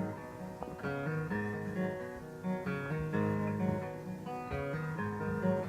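Live song music led by a plucked guitar playing a sequence of chords and notes, with no singing.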